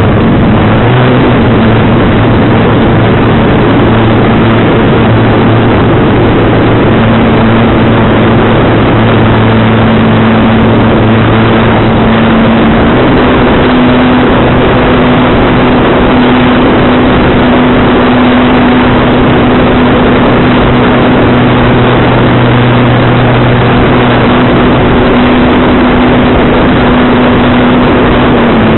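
Strong wind blasting the microphone, loud and rushing, over a steady low hum whose pitch steps up a couple of times.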